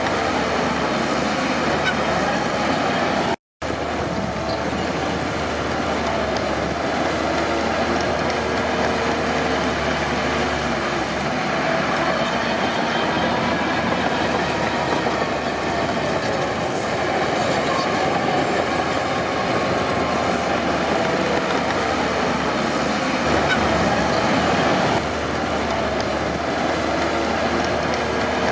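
Crawler bulldozer working: diesel engine running under load while its steel tracks squeal and clatter steadily. The sound cuts out completely for a moment about three and a half seconds in, then resumes.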